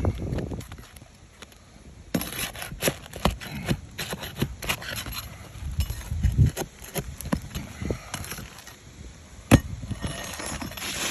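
A roofer working on asphalt roof shingles with hand tools to take a row of nails out. Irregular sharp clicks, taps and scrapes start about two seconds in, with a few duller knocks among them.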